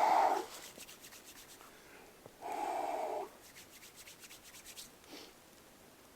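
Two short rasping, rubbing strokes, one at the start and one about two and a half seconds in, with faint quick ticking between them.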